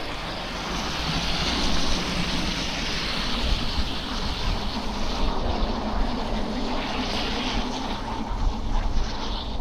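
Tyres hissing through slush on a snowy city street, with wind buffeting the microphone as a low, uneven rumble. The hiss swells over the first few seconds and then holds.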